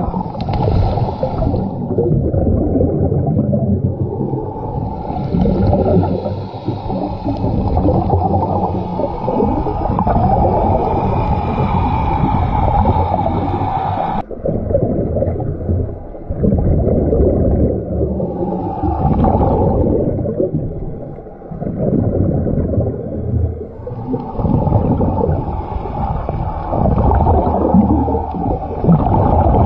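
Muffled underwater rumble with gurgling bubbles from scuba divers' breathing, heard underwater. The sound changes abruptly about halfway through.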